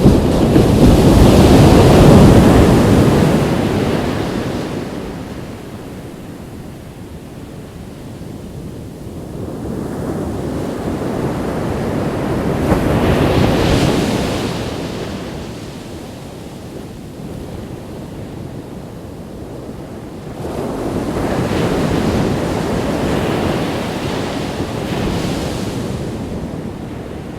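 Ocean waves breaking and washing up a beach, three surges that swell and fade, the first the loudest. Wind noise on the microphone runs under it.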